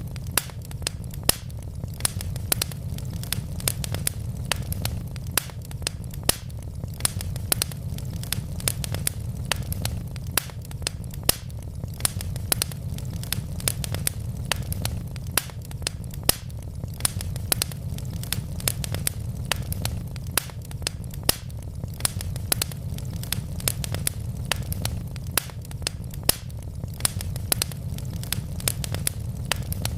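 Wood logs burning in a fireplace, crackling with frequent sharp, irregular pops and snaps over a steady low rumble of the flames.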